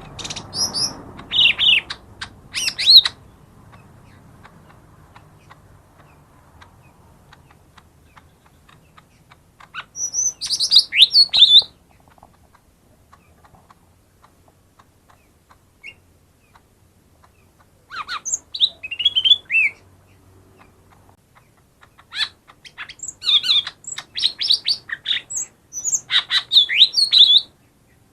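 Cucak ijo mini (lesser green leafbird) singing in short bursts of rapid, high, sliding whistled notes, four phrases with pauses of several seconds between them; the last phrase, near the end, is the longest.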